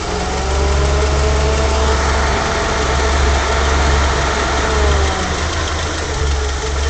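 Fiat Coupé's naturally aspirated 16-valve Lampredi four-cylinder engine idling steadily on bad, old engine oil.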